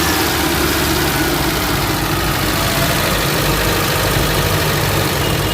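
Mitsubishi Lancer engine idling steadily just after a top overhaul, running a little noisy, which the mechanic puts down to the cylinder head not having been machine-shopped and the valves not reseated, the work done by hand.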